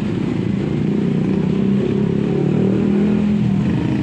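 A motor engine running, its drone swelling and rising a little in pitch around the middle.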